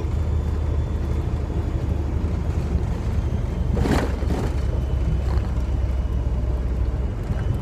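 Steady low rumble of a Freightliner semi-truck's diesel engine heard inside the cab, with a brief whoosh about four seconds in.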